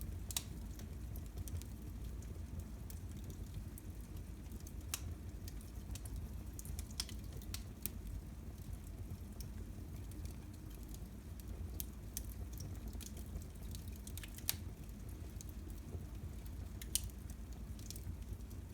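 Wood fire in a fireplace burning, with irregular sharp crackles and pops over a low steady rumble.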